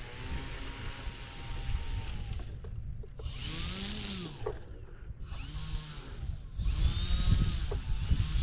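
Electric motor and propeller of a SIG Four Star 20EP RC plane being throttled up and down while taxiing, the pitch rising and falling in several surges, cutting out briefly about two and a half seconds in and again near five seconds. Gusty wind buffets the microphone, rumbling loudest near the end.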